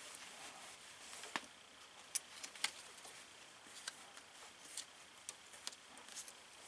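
Faint, irregular metallic clicks and clinks of hand-tool work: a spring hose clamp held open in cable-type hose clamp pliers, being worked into place on an upper radiator hose.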